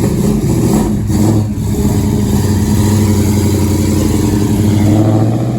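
Chevrolet Bel Air's engine running with a deep, steady note as the car rolls slowly past, the pitch rising slightly near the end as it picks up speed.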